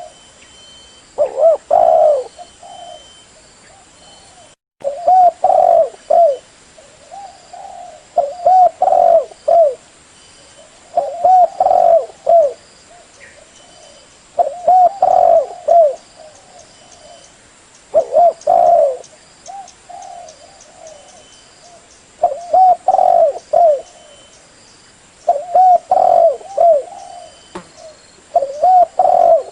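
Spotted dove (tekukur) cooing: a phrase of several low coos, repeated about every three to four seconds, played as a lure call.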